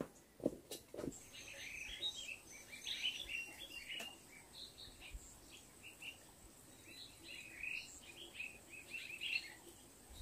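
Small birds chirping and twittering in many short, quick calls, with a couple of soft knocks in the first second.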